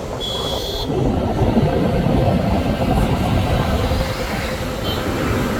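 Steady low rumble of road and wind noise from a moving car, a little louder about a second in, with a brief high chirp at the very start.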